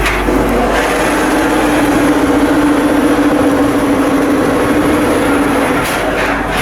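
Heavy machinery running loudly with a steady droning tone over a noisy rumble; the tone fades out about six seconds in.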